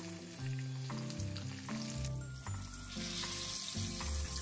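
Oil sizzling as floured mackerel pieces shallow-fry in a pan, the hiss growing louder about three seconds in, with background music of low, stepping notes.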